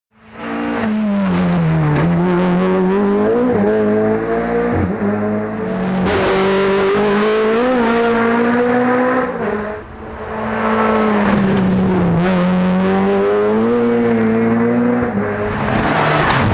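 Rally car engine driven hard, its revs climbing and dropping again and again through gear changes. The sound starts abruptly, and the engine note briefly falls away about ten seconds in before picking up again.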